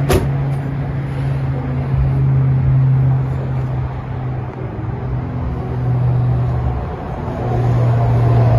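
A car engine running steadily with a low hum, a little louder near the end, with a short click right at the start.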